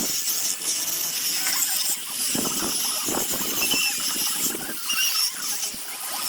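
Zelkova root wood being sanded: a steady abrasive hiss with repeated rough scraping strokes, and brief high squeals from the abrasive on the wood.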